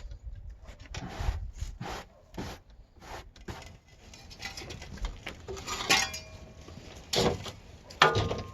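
Irregular scraping and knocking of dirt and rocks being moved around a flower bed, with sharper strikes about six, seven and eight seconds in.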